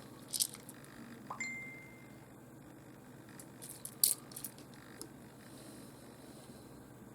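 Small pieces of opalised fossil opal clicking against each other as they are sorted and picked up by hand: a few light clicks, one brief ringing clink about a second and a half in, and a short cluster of clicks about four seconds in.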